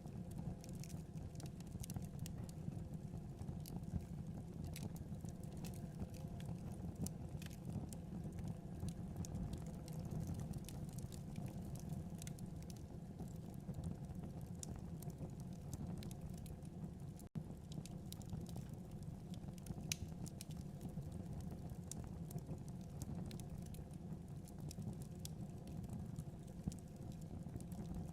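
Wood fire burning in a fireplace: a steady low rumble of flames with many small, sharp crackles and pops throughout, broken by a split-second gap about seventeen seconds in.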